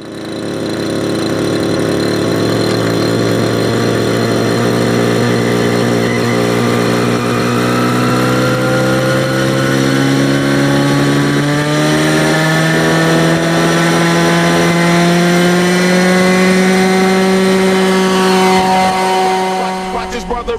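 Helicopter engine spooling up: a steady mechanical whine that climbs slowly and evenly in pitch, with a ragged flutter just before it stops.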